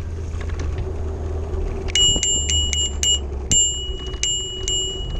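Handlebar bell on a Lime rental ride rung in two quick runs of dings, about four a second, with a short gap between, to warn people ahead. A steady hum and wind rumble run underneath.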